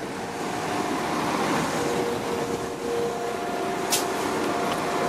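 West Midlands Railway diesel multiple unit moving along the platform, a steady rumble with faint whining tones from its engine and transmission. One sharp click about four seconds in.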